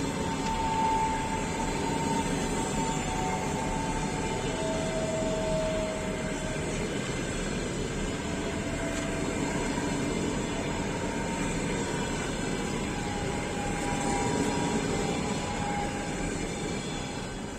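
Passenger train rolling past on the rails, a steady rumble with faint drifting whines, fading away near the end.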